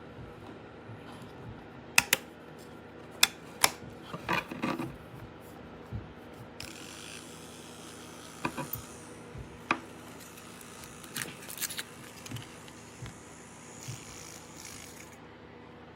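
Clicks and knocks from handling an electric nail drill machine and its handpiece, over a faint steady hum. A high hiss comes in twice, around seven and fourteen seconds in.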